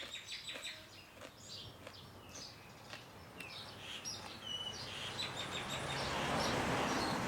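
Small birds chirping in short repeated calls, with a louder noisy sound building up in the second half.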